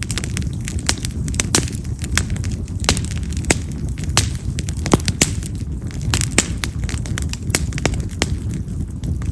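Split wild cherry (yamazakura) firewood burning in an open fire, with a steady low rush of flame and frequent sharp crackles and pops, several a second.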